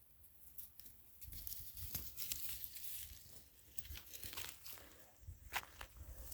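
Irregular crackling and rustling with scattered sharp clicks and soft low thumps.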